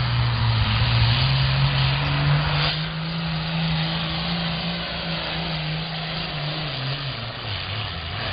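Modified John Deere 4430 diesel tractor engine running hard under load while pulling a weight-transfer sled, with a steady note that drops in pitch about seven seconds in as the engine comes off the throttle.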